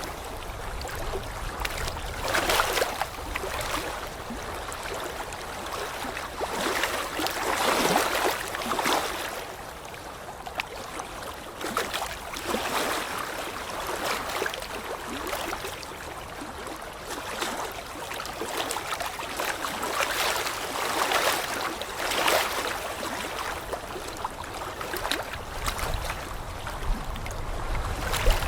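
Running water, rushing and splashing in irregular surges every few seconds.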